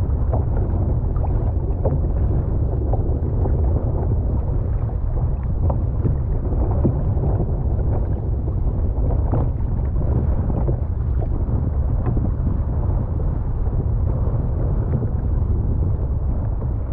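Steady wind buffeting the microphone, a low rumble with no break, heard from a kayak on the sea.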